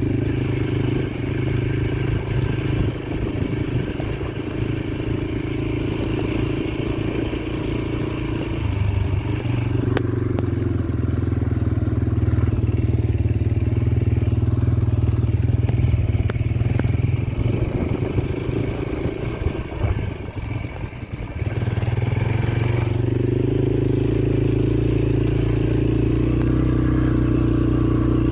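Yamaha TT-R125LE dirt bike's single-cylinder four-stroke engine running while being ridden, its note shifting with the throttle. About twenty seconds in it drops off briefly, then picks up again and holds steady.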